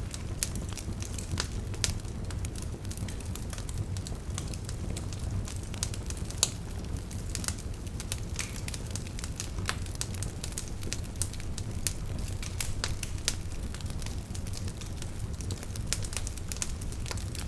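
Wood fire crackling, with irregular sharp pops over a low steady rumble; one louder pop about six and a half seconds in.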